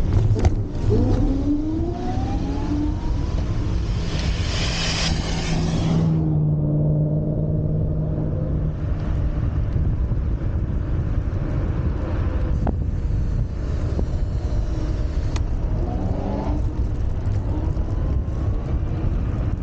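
Wolf Warrior 11+ electric scooter riding along, with a steady low rumble throughout. A motor whine rises in pitch about a second in and again near the end as the scooter speeds up.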